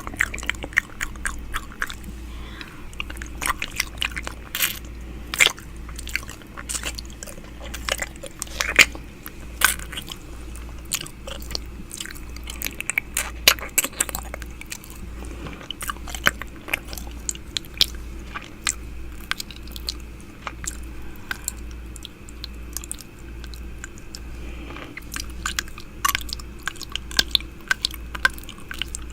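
ASMR 'ear eating' mouth sounds made close to a microphone: a continuous, irregular stream of wet clicks, smacks and nibbling sounds. A low throb repeats about once a second underneath.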